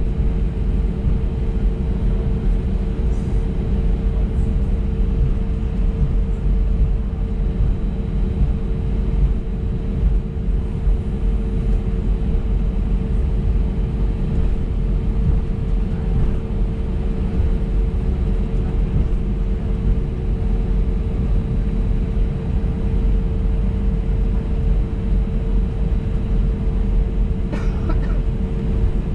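Cabin noise of an Airbus A320neo taxiing: a steady low rumble from the CFM LEAP-1A engines at taxi power and the rolling aircraft, with a constant hum over it.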